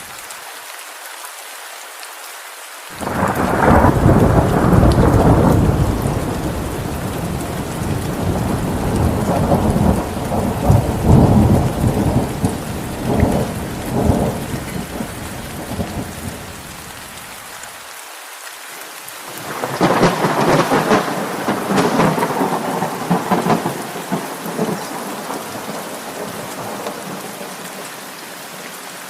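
Steady rain with two long rolls of thunder, the first breaking about three seconds in, the second about twenty seconds in, each rumbling for several seconds before fading.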